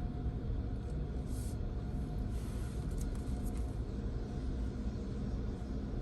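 Steady low rumble of a car, heard from inside the cabin, with a few brief hisses.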